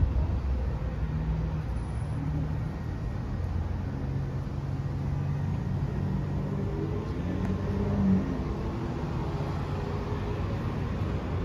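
Steady low rumble of motor vehicles running, with a brief swell about eight seconds in.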